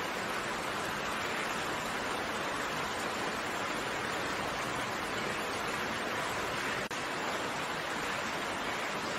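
Steady, even rainfall, a dense hiss of raindrops with no separate drops standing out, broken by a momentary drop-out about seven seconds in.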